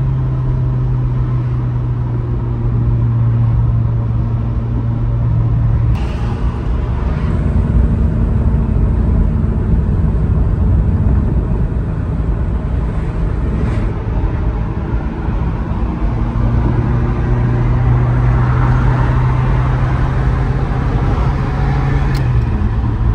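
Ferrari F355's 3.5-litre V8 heard from inside the cabin while driving, a steady engine drone over tyre and wind noise. The engine note shifts a few times, with a brief click as a gear is changed near the end.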